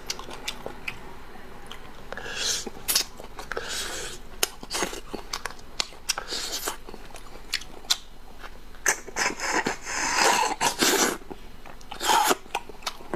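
Close-miked eating: wet chewing and biting with many small mouth clicks, and several louder, longer noisy bursts of slurping and sucking, the longest about nine to eleven seconds in.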